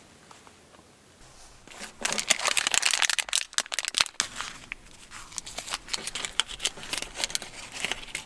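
Crinkling and rustling of handled material, such as a plastic wrapper or packaging, starting about two seconds in as a dense run of irregular crackles.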